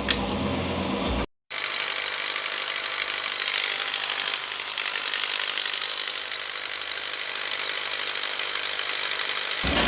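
A power tool working on metal, a steady hiss-like noise, broken by a brief dropout about a second in.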